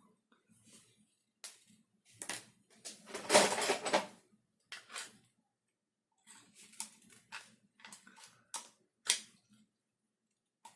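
Hard 3D-printed plastic rifle parts being handled and fitted together: a series of irregular clicks and knocks, with a longer scraping sound about three seconds in.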